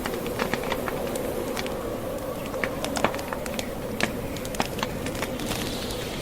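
Burning logs crackling in a fireplace, with many irregular sharp pops, over the steady rushing of a snowstorm's wind.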